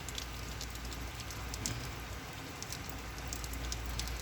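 Heavy rain falling steadily, an even hiss with many sharp drip and splash ticks scattered through it.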